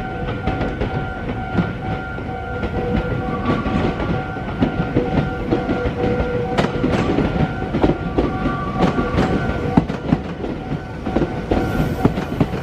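Meitetsu electric train running through the junction, its wheels clattering over the points and rail joints in irregular clicks. Steady high tones come and go.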